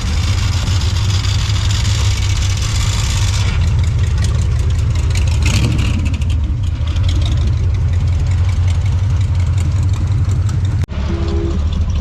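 A car's engine running with a loud, steady low exhaust rumble.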